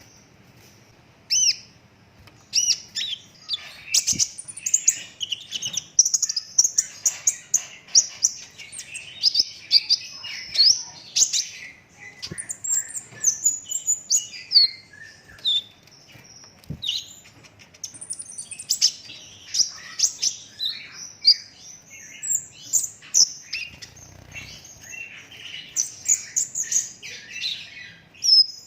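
Young kolibri ninja sunbird singing non-stop, a dense run of rapid high-pitched chirps, trills and short glides with hardly a pause.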